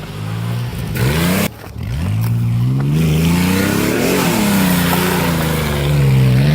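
Nissan Frontier pickup's engine revving under load while crawling off-road. The pitch rises and falls in swells, with a short break in the sound about a second and a half in.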